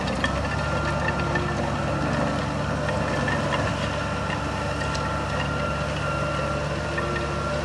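Heavy diesel engine of a bulldozer or dump truck running steadily at a low idle-like pace, with a thin steady high whine over the rumble.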